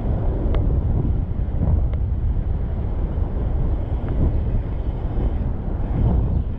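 Steady low rumble of wind buffeting the microphone while riding a bicycle, with a few faint clicks.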